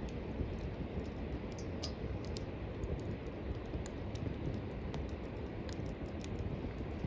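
Small wood fire in a metal bowl crackling, with irregular sharp pops and ticks over a steady low rush.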